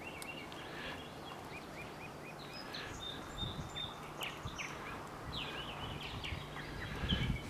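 Small birds calling in the woods: repeated short rising chirps and brief whistled notes, over faint background noise.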